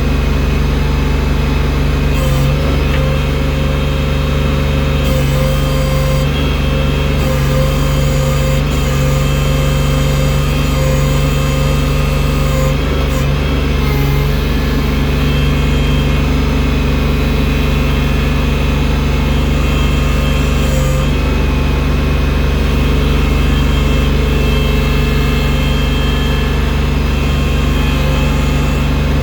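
Loader's engine running steadily while it works snow, with a higher thin whine that comes in for several seconds at a time over the even drone.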